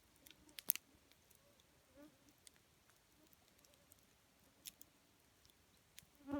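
Wood campfire crackling quietly, with a few sharp pops, the loudest under a second in. An insect buzzes briefly about two seconds in and again, louder, near the end.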